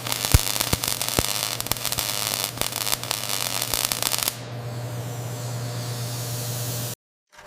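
Electric welding arc crackling and hissing over a steady low hum, with many sharp pops for about four seconds, then settling into a smoother hiss that cuts off abruptly near the end.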